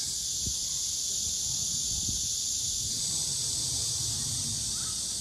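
Steady high-pitched chorus of insects in the trees, an even shrill hiss, with a low rumble underneath.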